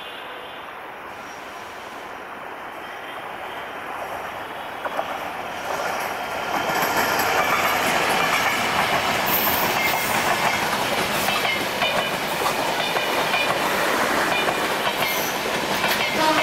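Diesel-hauled passenger train passing close by, led by an EMD GT42ACL locomotive. The sound grows steadily as the train nears. From about six seconds in, the passing coaches' wheels clatter loudly and rhythmically over the rail joints.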